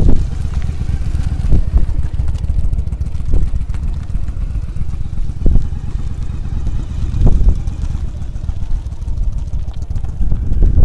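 Yamaha Drag Star 1100's V-twin engine running at low speed through slow, tight practice turns, under heavy wind buffeting on the microphone.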